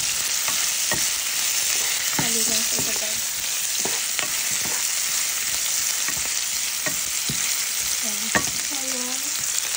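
Dried fish, sliced onion and garlic sizzling in hot oil in a frying pan, with irregular clacks of a spatula against the pan as they are stirred; one sharper knock stands out near the end.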